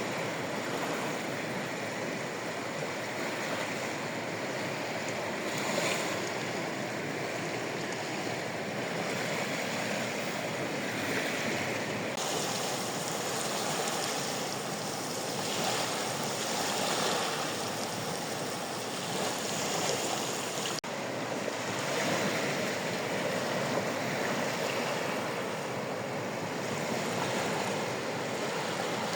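Sea waves washing onto the shore in a steady surf, swelling and easing every few seconds.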